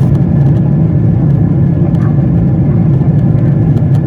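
Airplane engines and airflow making a steady, loud, low rumble with no change in pitch.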